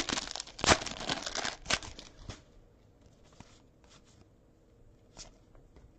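Football trading cards and their pack wrapper being handled: a dense crinkling and rustling for about the first two seconds, then only a few faint ticks as the cards are shuffled through.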